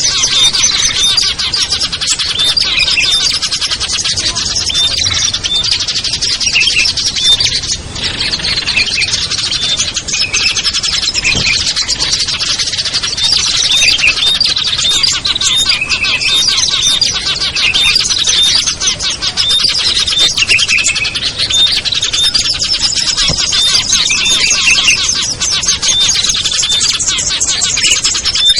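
Dense chorus of small songbirds chirping and calling over one another, a constant stream of rapid high ticks and short repeated call phrases.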